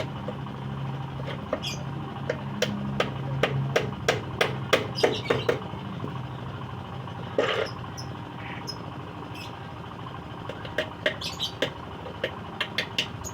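Quick series of sharp knocks on wood as a scrap-wood lovebird nest box is put together, in two runs of about two to three blows a second, over a steady low hum.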